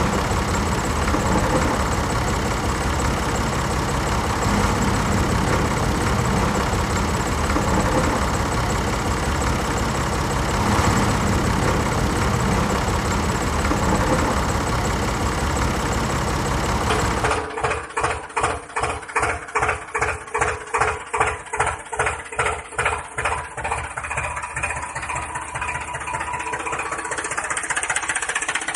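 An engine running steadily. About two-thirds of the way through, the sound changes abruptly to an engine idling with a slow, even chug of about three beats a second.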